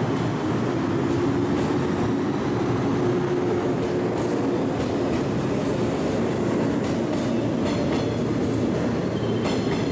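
JR West 115 series electric train running along the station platform, a steady rail noise with a faint high tone near the end.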